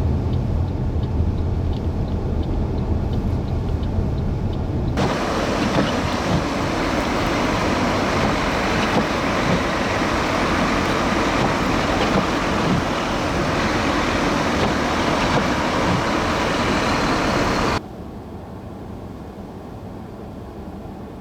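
Car road noise heard while driving on a snowy highway, a steady low drone. About five seconds in, a much louder hissing rush takes over. It cuts off abruptly near the end, leaving a quieter drone.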